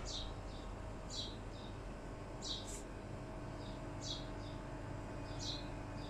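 A bird calling over and over: a short falling chirp followed by a fainter, shorter note, about once every second and a half, over a steady low background hum.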